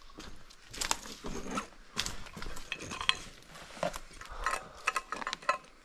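Irregular small clicks, clinks and scuffs of hard objects being handled, several every second.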